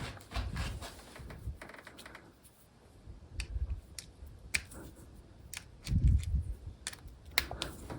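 Scattered light clicks and taps, with a dull low thump about six seconds in.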